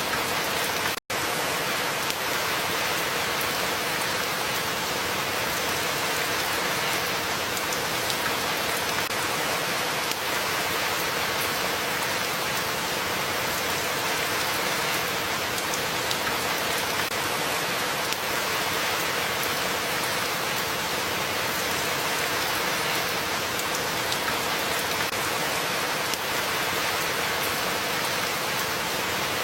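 Steady rain falling, an even hiss with no change in strength. The sound cuts out for an instant about a second in.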